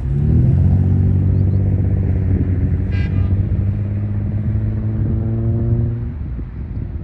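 Train air horn sounding one long, low steady blast that starts suddenly, holds for about six seconds and then dies away, as a train shoves over a grade crossing.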